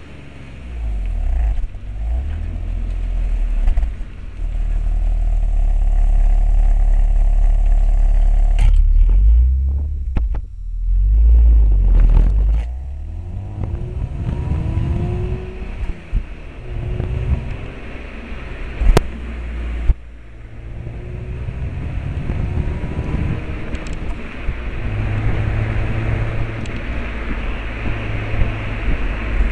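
BMW Alpina B3 S straight-six engine and exhaust running under changing load, its note rising and falling in pitch several times over a deep low rumble.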